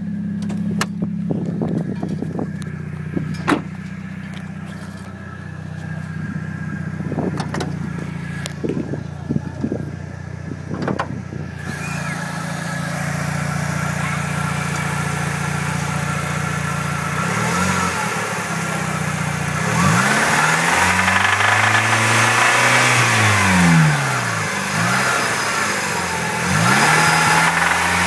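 1998 Mitsubishi Eclipse GS's 420A 2.0-litre four-cylinder engine idling, with a few sharp clicks in the first ten seconds, then revved up and back down about four times. The owner reports a horrible knocking noise that comes in between 2,000 and 4,000 rpm.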